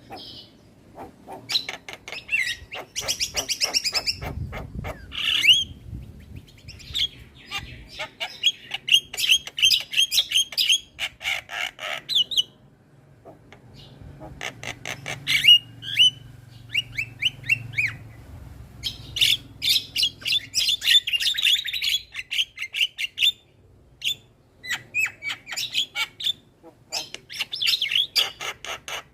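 Javan myna singing vigorously: long runs of rapid, clicking chatter mixed with whistled notes, broken by short pauses about twelve seconds in and again near the end.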